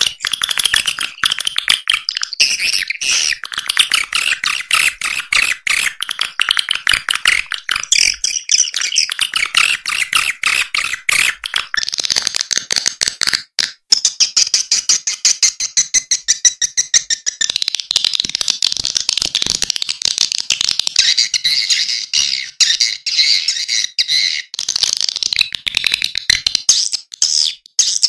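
Swiftlet lure call recording: a dense, rapid chatter of swiftlet chirps and clicks that never stops, shifting in pitch several times. It is a call track played to draw swiftlets into a nesting house.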